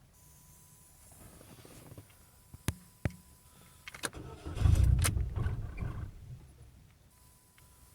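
A car running on E85 ethanol fuel being started from cold. A few sharp clicks come first, then a loud low burst of starter cranking and engine firing about halfway in, lasting about a second and a half before it dies away.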